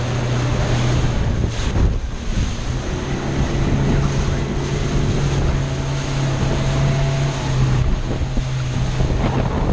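Speedboat's outboard engines running steadily under way, a low hum that dips briefly about two seconds in, with water rushing past the hull and wind buffeting the microphone.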